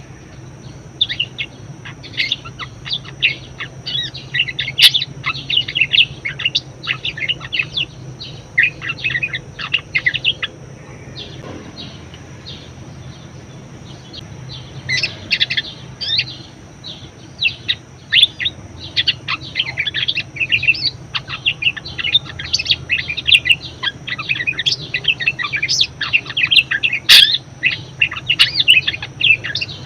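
Budgerigar chattering: a rapid, continuous warble of short chirps and squeaks. It pauses for about three seconds around the middle, then starts again.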